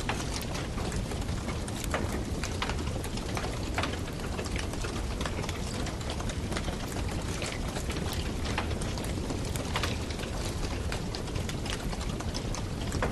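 Campfire wood crackling, with irregular sharp pops over a steady rushing noise.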